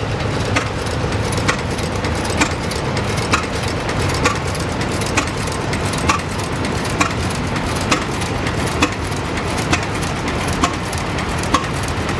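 Baker traction engine running as it moves along, with a steady low rumble and a sharp, regular beat about once a second.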